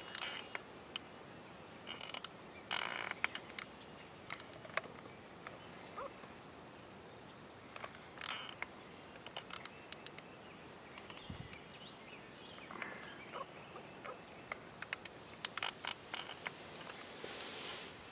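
Quiet outdoor ambience with scattered soft clicks and rustles and a few short, faint bird calls. The calls come from wild turkey hens working toward a decoy.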